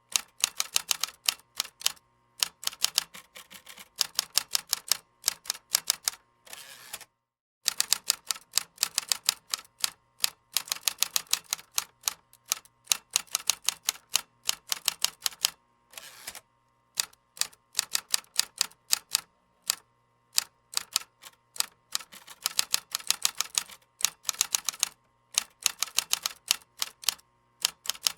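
Computer keyboard typing: rapid keystroke clicks in bursts of a few seconds, with short pauses between them.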